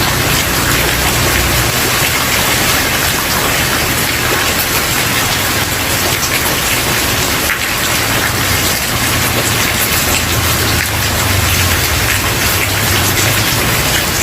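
Steady rain falling on a wooden porch. A low rumble underneath fades out about two seconds in and comes back for a few seconds past the middle.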